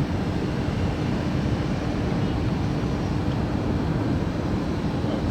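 Jet airliner engines giving a steady low rumble with a constant hum.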